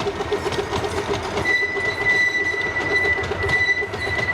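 A 15-inch gauge miniature train running along the track with a quick, even rumble. About a second and a half in, a steady high-pitched squeal sets in and holds.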